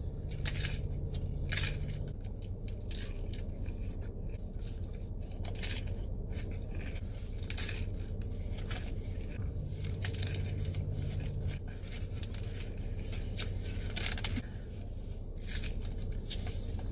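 Chewing and biting into a taco, with irregular crisp crunches every second or so, over a steady low hum.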